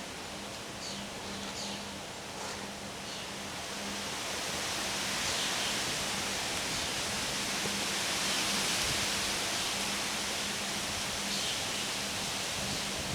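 Wind blowing through trees with rustling leaves. It builds to a stronger gust a few seconds in and stays strong.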